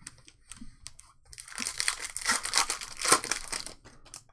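Foil trading-card pack wrapper being torn open and crinkled in the hands. There are a few light taps, then a dense crinkling that starts about a second in and runs for roughly two and a half seconds.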